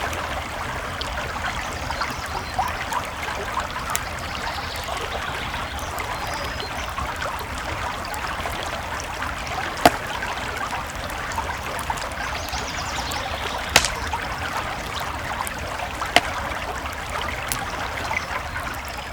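Creek water babbling steadily, with a wood campfire crackling over it and three sharp, louder pops in the second half.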